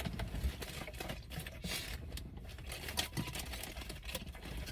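Irregular small clicks, taps and rustles of objects being handled and moved about, over a faint low rumble.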